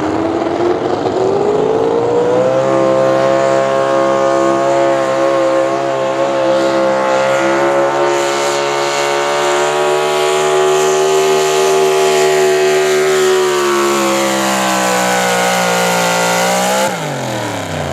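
Gas-class pulling truck engine at full throttle dragging the sled. Revs climb over the first couple of seconds and then hold high and steady, sagging slowly in pitch as the load builds. The throttle is cut about a second before the end, and the revs drop away sharply.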